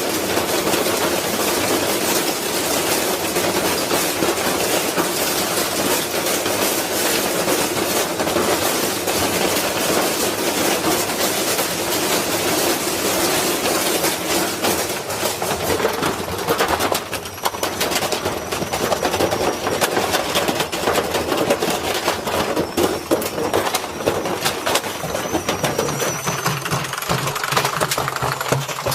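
Washing machine loaded with bricks, spinning, with a continuous rapid clatter and banging of the bricks tumbling in the drum.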